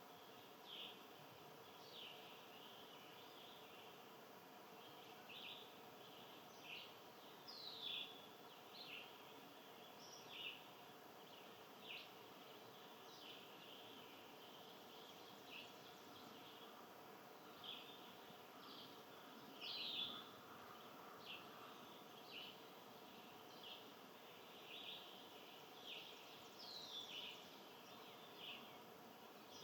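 Small birds chirping: short high chirps, some sweeping down in pitch, repeated about once a second over a faint steady background hum.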